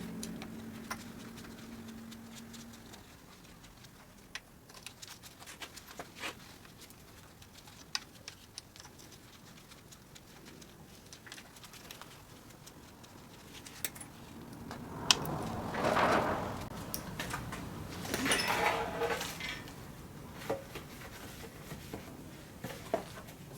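Scattered metallic clicks and clinks of hand tools and small metal parts being handled, with two longer rattling, scraping passages about two-thirds of the way through.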